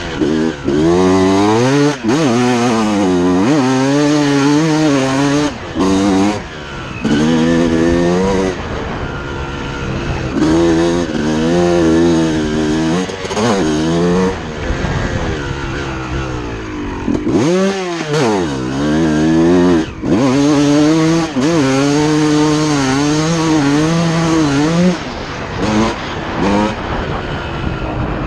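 2006 Suzuki RM250's two-stroke single-cylinder engine being ridden hard, its pitch climbing and falling over and over as the throttle is opened and chopped, with a few brief cuts where it drops away and then picks up again.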